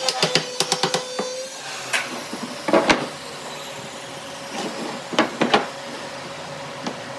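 Woodworking shop sounds: a quick run of sharp knocks and taps on wood, then a few single knocks spaced out, over a faint steady machine hum that drops in level about a second and a half in.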